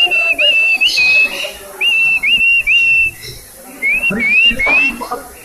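Parrot whistling: short clear notes that each swoop up and then hold, repeated in three quick groups of three with brief pauses between.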